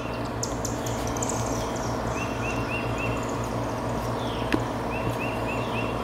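A bird chirping outdoors in short runs of three or four quick notes, a run about every two and a half seconds, over a steady low hum. Faint light ticks come from the wire ends being fed into a butt connector held in the crimper, with one sharper tap about four and a half seconds in.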